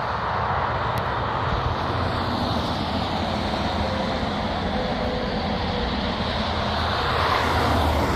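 Heavy trucks' diesel engines rumbling with road and tyre noise as they drive past, steady, growing a little louder near the end.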